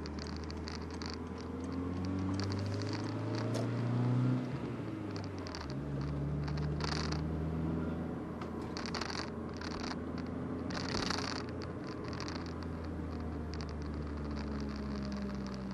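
Volkswagen Golf Mk4 with a broken, leaking exhaust driving: the engine note rises under acceleration, drops with a gear change about four seconds in, then holds steady, with a few short hissy rushes over it.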